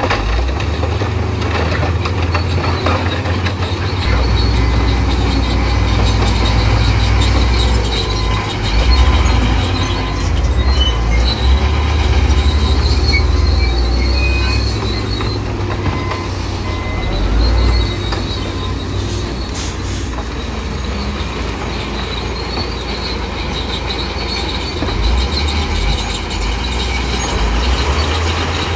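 Crawler bulldozer working: a deep, steady diesel engine rumble with the steel tracks squealing and grinding on and off.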